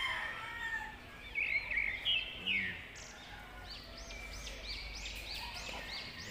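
Birds chirping: short, arching chirps, loudest between about one and a half and two and a half seconds in, then a quick run of repeated chirps, about three a second, through the last few seconds.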